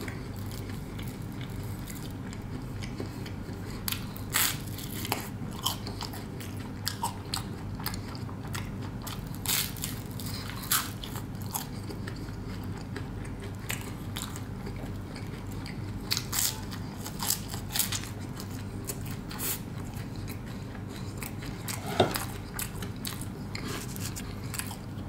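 Close-up chewing and biting of toasted cheesy garlic bread: irregular crisp crunches of the crust, with one sharper crunch near the end, over a low steady hum.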